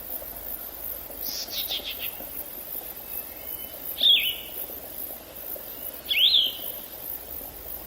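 Forest birds calling over a steady faint background hiss: a quick run of rapid notes early on, then two loud, short, sharply rising calls about two seconds apart.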